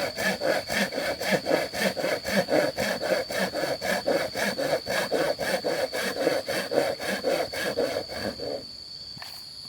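Hand saw cutting through bamboo with steady back-and-forth strokes, about three a second, stopping about a second before the end.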